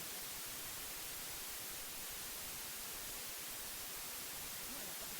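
Steady white noise hiss, with faint subliminal affirmations in a voice buried under it, barely showing near the end.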